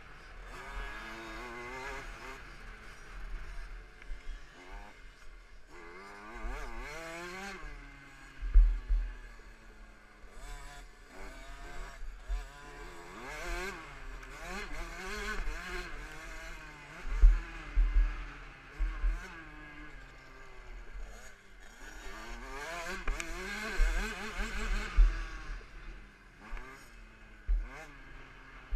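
KTM 65 SX two-stroke single-cylinder engine revving up and falling back again and again as the bike races, with several heavy low thumps in between.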